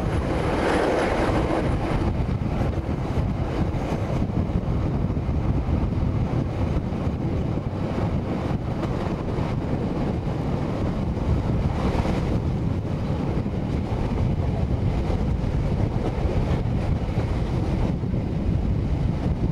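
Steady running noise of a passenger train heard from an open carriage window: the rumble of the wheels on the rails mixed with wind rushing over the microphone.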